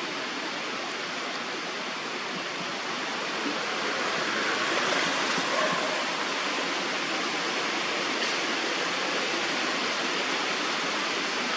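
Steady, even rushing noise, a little louder from about four seconds in.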